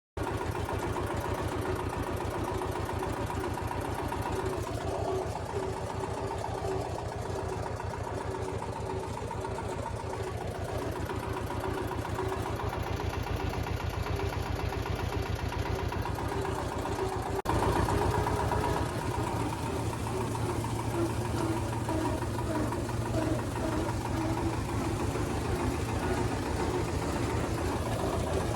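Tractor engine running steadily with an even low pulsing. It gets somewhat louder after an abrupt cut about two-thirds of the way through.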